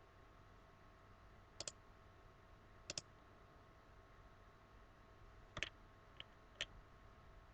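Computer mouse clicking, five sharp clicks spread out, several of them quick pairs of press and release, over a faint steady electrical hum.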